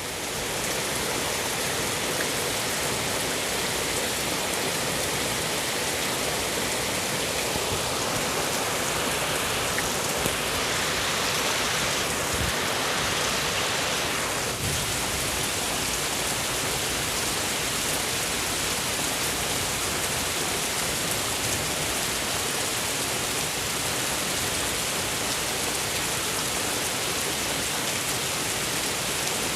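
Heavy rain pouring down and pattering on surfaces in a steady, dense hiss, growing a little heavier about halfway through. The downpour comes from a typhoon's outer rain bands.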